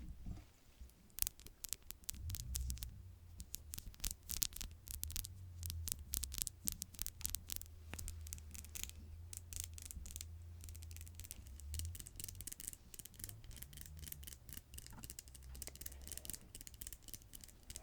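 Fingernails tapping and scratching on a hard surface: quick, irregular clicks that come thick and fast for the first several seconds, thin out, then pick up again near the end, with a faint low hum underneath.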